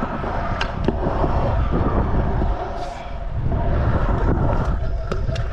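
Scooter wheels rolling over skatepark concrete, a steady low rumble that swells twice, with a few sharp clicks of the scooter, the last near the end.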